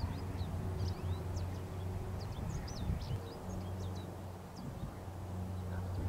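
Small songbirds chirping, many short quick high notes scattered throughout, over a steady low hum.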